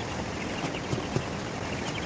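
Outdoor ambience: a steady hiss with fast repeated high chirping, and two short dull knocks about a second in.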